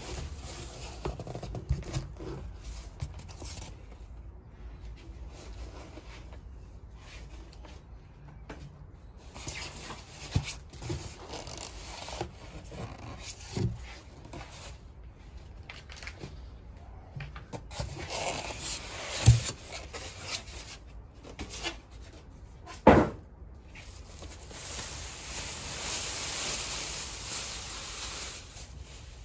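Handling noises: scattered rubbing and scraping with small knocks, two sharp louder knocks in the second half, and a few seconds of scraping or rustling near the end.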